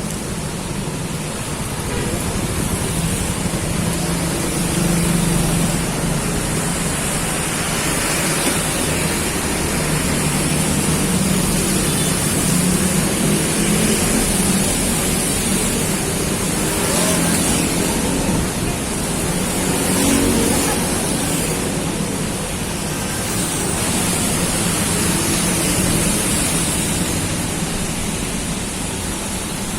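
Heavy tropical downpour: a steady, even hiss of hard rain falling.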